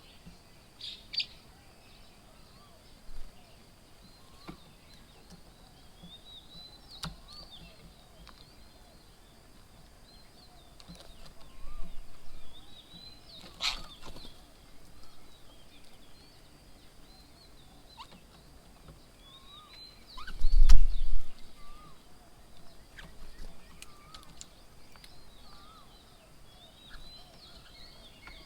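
Many small birds chirping and calling in short, scattered notes. There are a few sharp clicks, and about two-thirds of the way through comes a brief low thump and rumble, the loudest sound.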